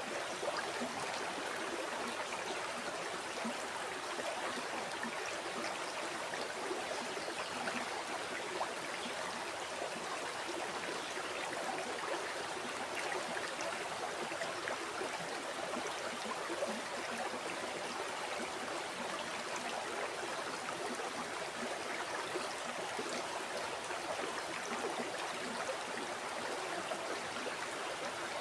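River water flowing steadily over rocks, an even rushing with dense small splashes and gurgles, unchanging throughout.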